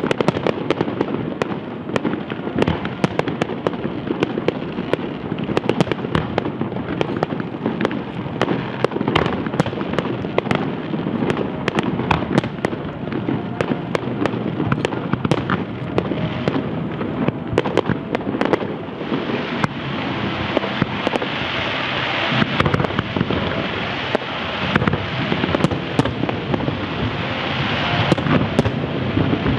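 Large aerial fireworks display: a dense, continuous run of sharp bangs and crackles with no gaps. About two-thirds of the way through, it thickens into a heavier hissing crackle.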